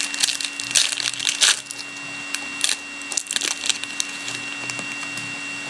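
Trading-card pack wrapper being torn open and crinkled by hand, a run of irregular crackles that thins out after about four seconds.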